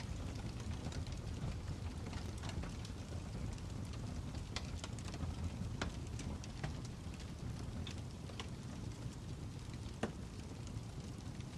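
Wood fire crackling: irregular sharp pops and snaps over a steady low rumble of burning, one louder pop about ten seconds in.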